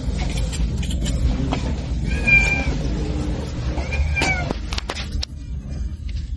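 Two short animal calls, each a held, slightly arched tone, about two and four seconds in, over a steady low rumble and scattered clicks.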